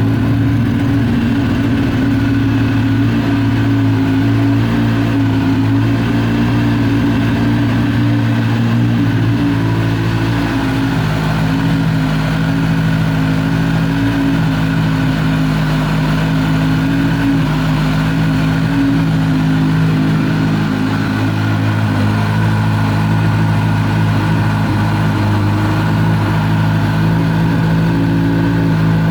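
2009 Kawasaki ZX-10R inline-four engine idling steadily through an MGP Growler slip-on exhaust.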